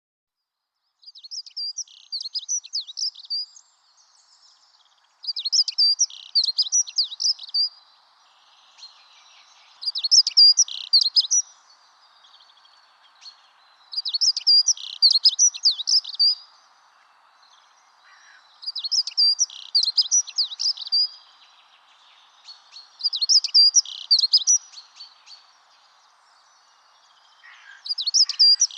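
A songbird singing the same short, fast trilling phrase over and over, each about two seconds long and repeated roughly every four to five seconds.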